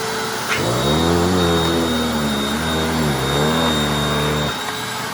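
Hoover Anniversary upright vacuum cleaner running. After a click about half a second in, its sound turns into a lower, wavering pitch that bends up and down for about four seconds, the way a vacuum's note changes as the airflow through the nozzle changes, then settles back to a steady run.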